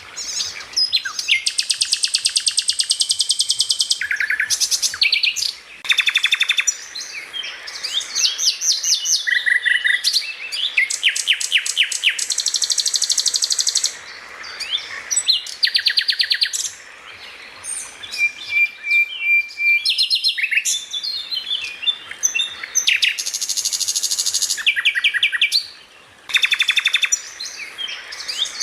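A songbird singing a fast, varied song of rapid trills, rattling runs and sharp chirps, in bursts broken by brief pauses.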